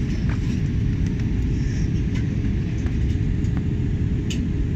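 Steady low rumble of an Airbus A320's passenger cabin during descent, heard from the rear of the aircraft: engine and airflow noise, with a faint steady hum above it.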